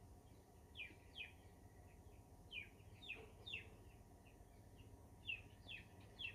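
Faint bird chirps in the background: short, quickly falling chirps, often in pairs, repeating every second or so over a low steady hum.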